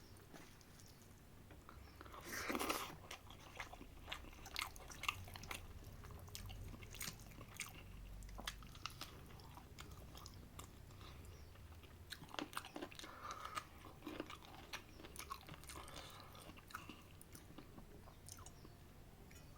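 A person chewing mouthfuls of chicken biryani with curry, close up: many short wet clicks and crunches, the loudest burst about two to three seconds in.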